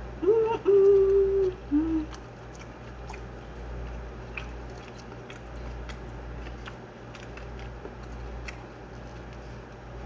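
A person chewing a mouthful of rice, with small wet mouth clicks. A short hummed 'mmm' of enjoyment comes in the first two seconds. A steady low hum runs underneath.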